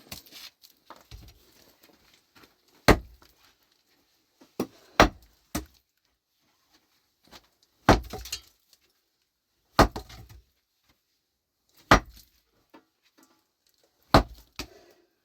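Pickaxe blows striking rocky ground, about eight heavy strikes at uneven intervals of one to two seconds, some followed by a brief clatter of loose material.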